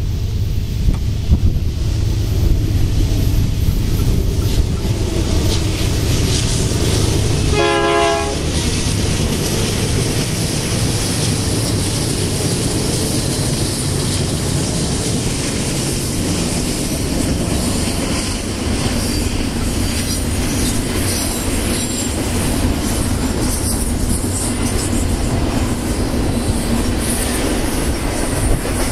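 Diesel-hauled BNSF intermodal freight train (double-stack containers and trailers on flatcars) passing at speed, with a heavy, steady rumble throughout. A brief horn blast sounds about eight seconds in.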